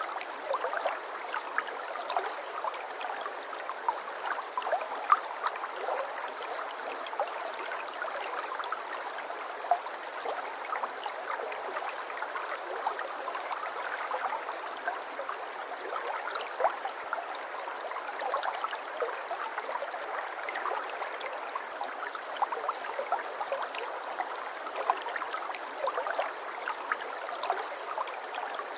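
A shallow stream babbling over stones, with steady water noise and many small splashes and gurgles.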